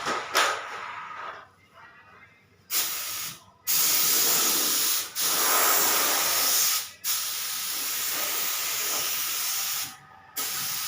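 Air spray gun spraying paint: a loud hiss in several bursts of one to three seconds, stopping briefly between passes when the trigger is let go.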